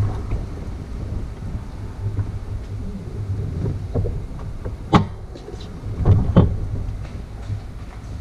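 Honda ST1300's V4 engine running at low speed under wind rumble on the microphone, with a few sharp knocks about five and six seconds in.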